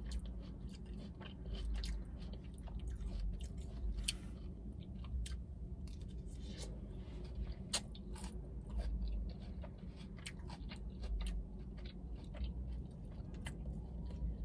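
Close-miked chewing of forkfuls of a Chipotle burrito bowl with rice, beans, chicken and lettuce, with soft crunches and many small, irregular wet mouth clicks.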